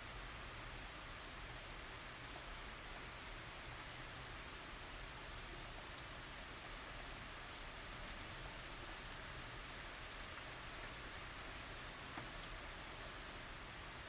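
Steady tropical rain falling, an even hiss with the patter of individual drops landing on surfaces; no thunder.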